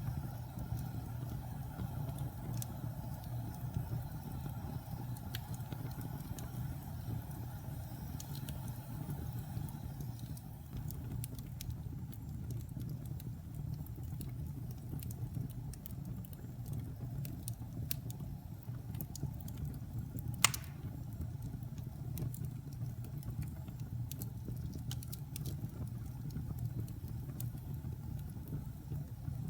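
Wood fire burning in a fireplace: a steady low rumble of flames with scattered small crackles, and one sharp pop about twenty seconds in.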